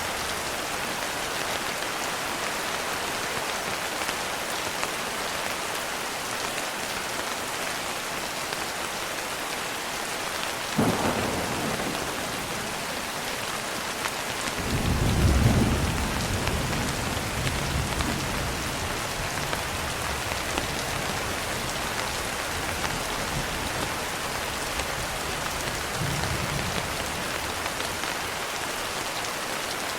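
Steady heavy rain with thunder: a sharp crack about eleven seconds in, then a longer low rumble rolling through the middle, and a fainter rumble near the end.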